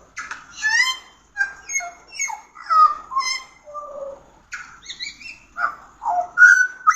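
Pied butcherbird singing: a run of varied, fluting whistled notes, some rising and some falling in pitch, with short pauses between phrases.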